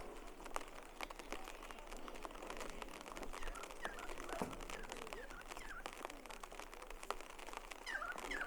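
Outdoor ambience on a rainy walk: many scattered light ticks and taps, with a few short chirping calls, a cluster of them near the end.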